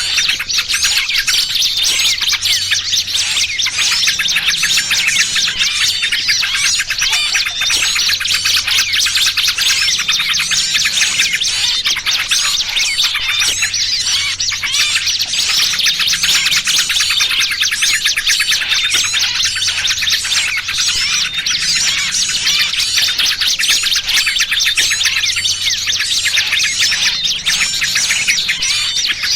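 Dense, unbroken chirping and twittering of many small birds at once: a bird-trapping lure recording mixing noisy yellow-vented bulbul (trucukan) calls with the distress calls of small birds. A faint low hum lies underneath and swells every few seconds.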